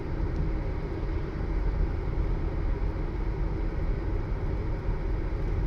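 Steady engine and road noise heard inside a moving car's cabin, a constant low rumble with no distinct events.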